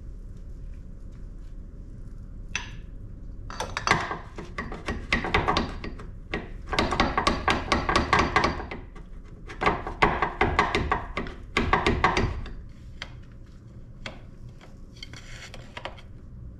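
Bursts of rapid metal knocks and clanks, several clusters a second or two long, from tools working at a stuck front drive axle to pop it out of the transmission.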